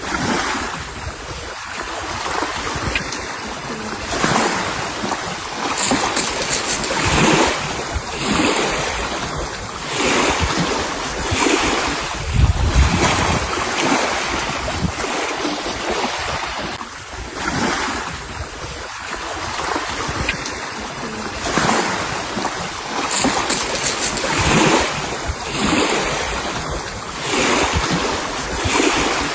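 Sea waves washing in and out, surging every couple of seconds, with wind gusting on the microphone.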